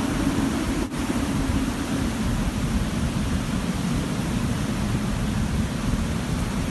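Hurricane-force wind blasting steadily against the microphone, a dense rumble with hiss over it and no letup.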